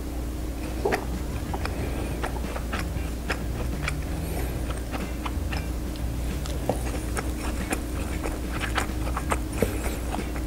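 Wet chewing and mouth clicks of a soft, syrup-soaked rasgulla (Indian cheese ball in sugar syrup) being eaten close to the microphone, many small sharp smacks in irregular succession, over a steady low hum.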